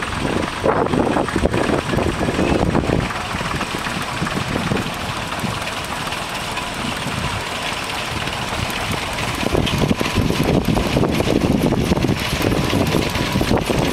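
Scale-model steam engine running along a road, a steady mechanical clatter that grows louder about ten seconds in.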